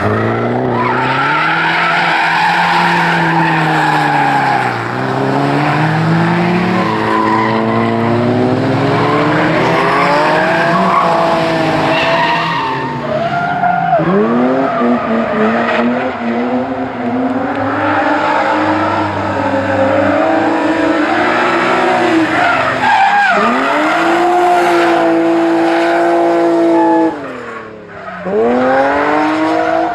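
Course car's engine driven hard, its pitch climbing steadily and then dropping sharply several times as it brakes and shifts down for corners before climbing again, with tyres squealing.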